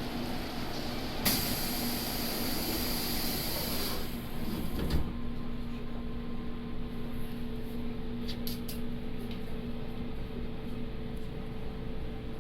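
Running sound inside a JR Kyushu 811 series electric multiple unit, its traction motors giving a steady low hum over the rumble of the wheels on the rails. A bright hiss comes in about a second in and stops at about four seconds, and a second, higher motor tone holds from about five seconds on.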